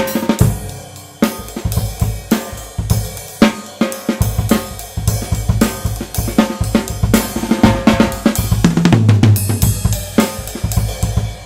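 Tama Swingstar drum kit with Remo heads and Meinl cymbals being played: snare, bass drum, hi-hat and cymbal strokes in a steady groove, recorded through a Blue Yeti USB microphone. Near the end the playing stops and the cymbals ring out.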